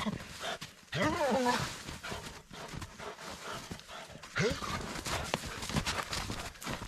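A dog whining twice, once about a second in and again past four seconds, over a run of short clicking crunches.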